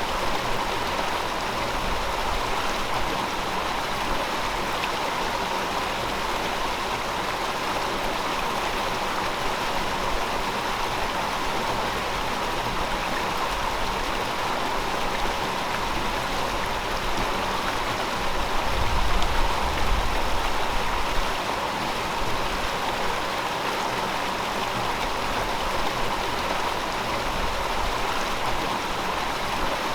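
A gentle river flowing steadily, a continuous rush of water. A low rumble swells for a couple of seconds about two-thirds of the way through.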